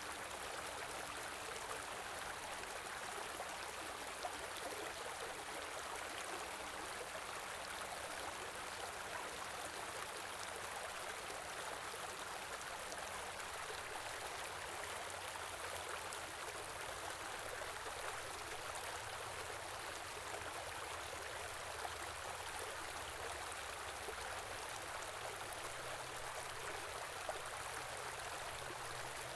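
Small river burbling and rushing over stones, a steady flow with no change.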